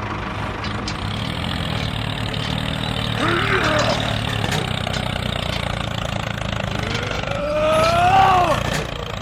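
Mini tractor's engine running steadily with a low, even hum. Two brief rising-and-falling pitched calls cut in, the second and louder one near the end.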